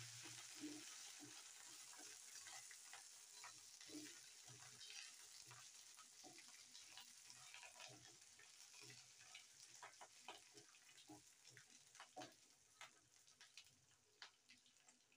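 Garlic, dried red chillies and curry leaves sizzling faintly in oil in a non-stick kadai while a spatula stirs them, with soft scrapes and taps of the spatula on the pan. The sizzle fades toward the end.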